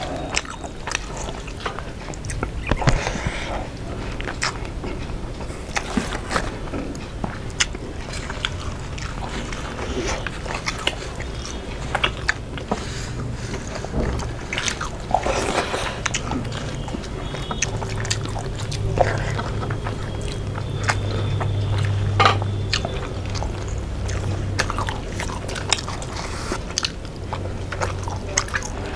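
Close-miked chewing and wet mouth sounds of people eating rice and fried fish by hand, with many small clicks and squishes as fingers mix rice and curry and pick at the fish. A low hum joins in the second half.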